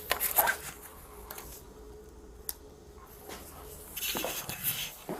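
Handling noise: irregular rustling and a few sharp clicks, with a faint steady hum through the first four seconds.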